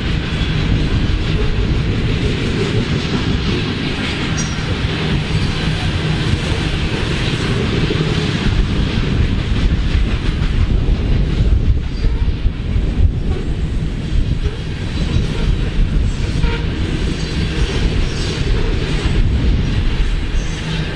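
Freight train of covered hopper cars rolling past, steel wheels on the rails with a clickety-clack over the joints, and wind buffeting the microphone with a heavy low rumble.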